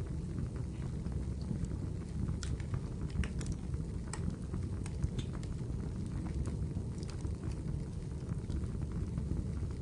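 Wood fire crackling in a fireplace: a steady low rumble of burning with scattered sharp pops and crackles, a few louder ones bunched in the middle.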